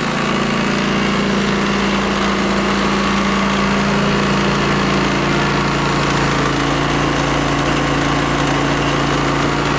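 Champion 4500 W dual fuel inverter generator's single-cylinder engine running steadily with no load on it, freshly started for break-in. Its hum shifts slightly about halfway through.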